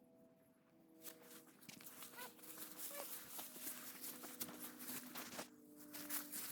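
Footsteps swishing and crackling through dry tall prairie grass, starting about a second in and pausing briefly near the end.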